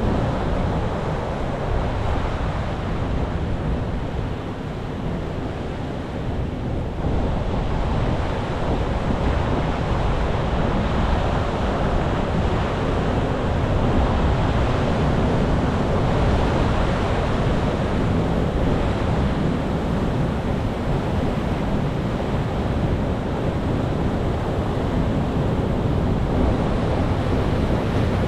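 Ocean surf: waves breaking and washing in a steady rush, with wind buffeting the microphone. The surf eases for a few seconds near the start, then swells again at about seven seconds.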